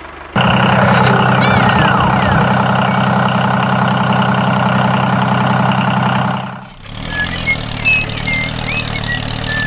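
Mini tractor engine running steadily. It cuts in abruptly just after the start, drops out briefly about two-thirds of the way through, then carries on at a different pitch. Short high chirps sound over it near the end.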